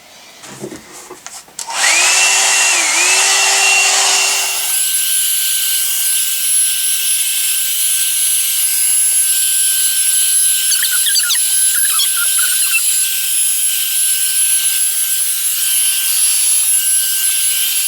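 A one-step hot-air brush hair dryer (the Amazon dupe of the Revlon One-Step) is switched on about two seconds in and runs steadily. Its fan blows with a rush of air and a high motor whine, and the whine's pitch dips briefly just after it starts.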